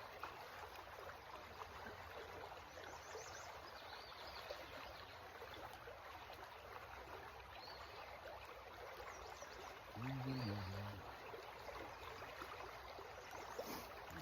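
Creek water running steadily, an even rushing trickle. A brief low hum about ten seconds in.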